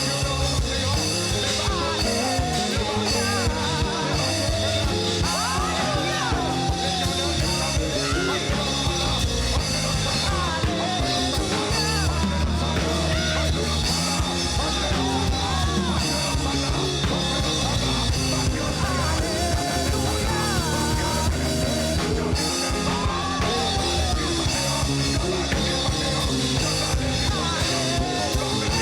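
Church worship band playing a song, with singing over a drum kit and a steady bass.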